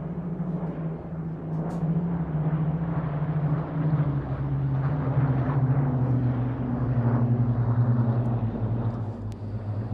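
Piston engines of Spitfire and Hurricane fighters flying past in formation: a steady drone that swells through the middle and falls slowly in pitch as the aircraft pass.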